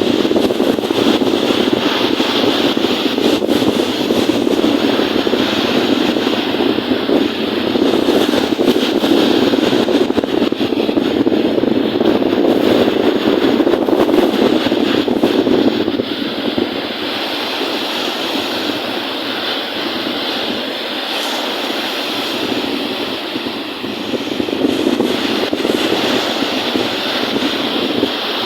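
Steady wind rushing over the microphone, mixed with waves washing on a lake, easing a little for several seconds past the middle before picking up again.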